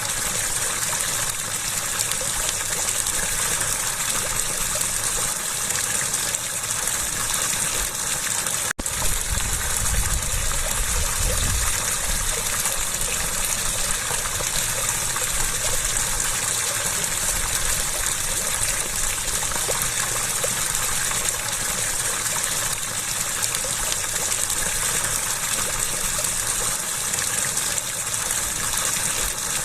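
Flowing water gushing steadily, with a momentary break about nine seconds in.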